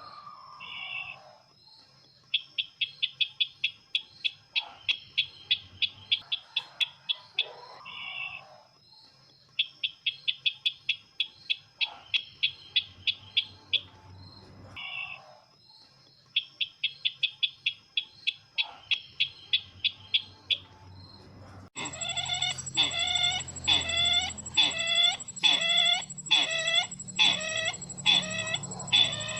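Bird-lure recording of the sisintar bird's call: bouts of fast chattering notes, about ten a second, with short lower notes between the bouts. About 22 s in it cuts abruptly to a louder call of repeated downward-sliding notes, a little over one a second.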